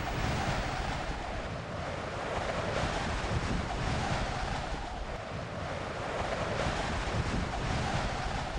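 Wind blowing steadily, gently swelling and easing, as a sound effect.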